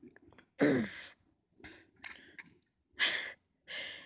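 A person's breathy exhalations or sighs, three short bursts, the first with a falling voiced tone.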